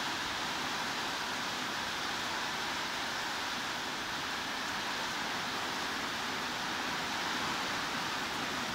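Steady heavy rain: an even, unbroken hiss with no separate drops, gusts or thunder standing out.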